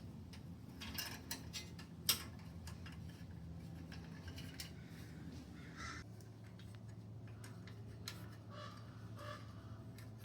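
Hex key working the bolts of a motorcycle exhaust end cap: scattered light metal clicks, one sharp click about two seconds in, and a few faint short squeaks.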